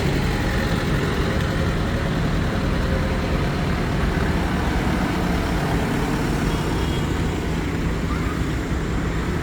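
Tractor engines running as tractors drive past, a steady low engine drone.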